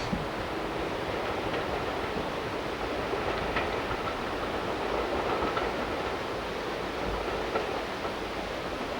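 A train running on the line: a steady noise with a few faint clicks and faint held tones.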